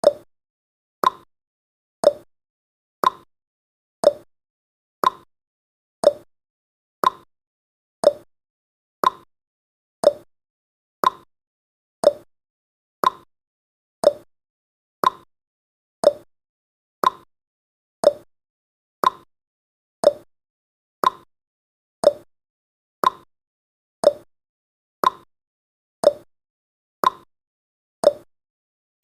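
Countdown timer's ticking sound effect: one short, sharp tick every second, evenly spaced, marking off the seconds.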